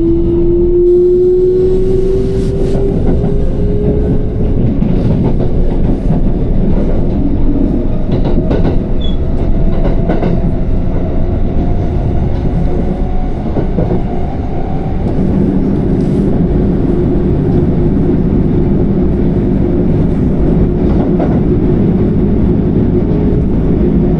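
Electric train running along the track, heard from inside the carriage: a steady low rumble of wheels on rail with occasional knocks over the rail joints. A motor whine rises in pitch during the first few seconds as the train gathers speed, and another rises slowly in the middle.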